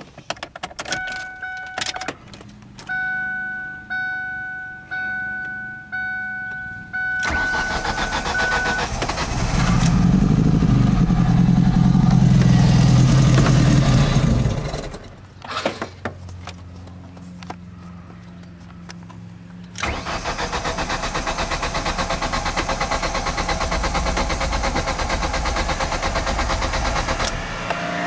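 Ford SVT Focus being cranked but failing to start. A dashboard warning chime sounds about once a second with a few clicks, then the starter cranks the engine in two long stretches, from about seven to fourteen seconds and again from about twenty seconds on, without it settling into an idle.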